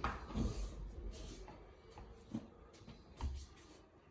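Scattered soft knocks and rustling, with a louder thump at the start and another about three seconds in.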